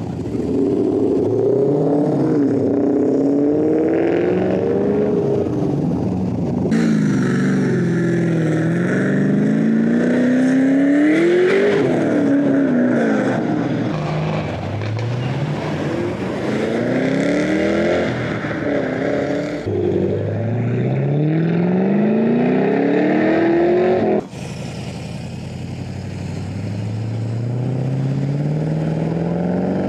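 Performance car engines accelerating hard away, one car after another, each revving up with a rising pitch that drops back at the gear changes. The sound changes abruptly a few times as one car gives way to the next.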